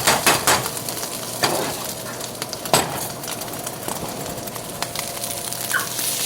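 Food sizzling in a frying pan, with a utensil knocking and scraping against the pan several times as it is stirred.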